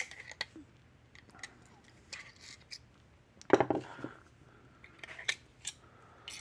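Small metal clicks and ticks of pliers working desoldered components off a circuit board, with one louder knock about three and a half seconds in.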